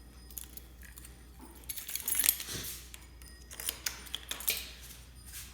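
A bunch of keys jingling and clinking as a key is fitted into the motorcycle's ignition switch and turned. There are two clusters of metallic clicks, about two seconds in and again around four seconds, with a last click near the end.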